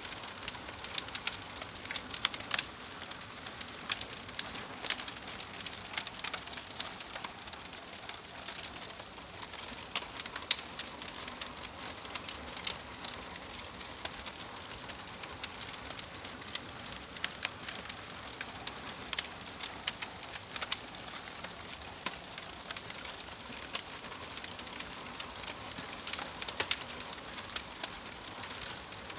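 Fire crackling: a steady soft hiss scattered with irregular sharp pops and snaps.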